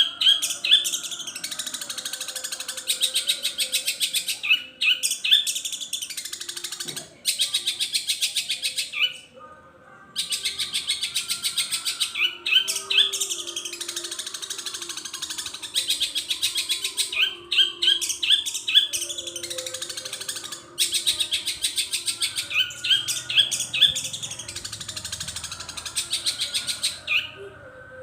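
Long-tailed shrike (cendet) singing a long, rapid chattering song laced with mimicked calls of other birds, in long bursts broken by brief pauses, with short rising whistled notes mixed in.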